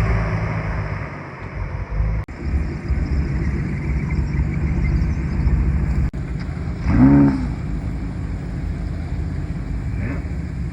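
Supercar engines rumbling at low speed as cars roll in, with one short throttle blip about seven seconds in, its pitch rising and then falling back.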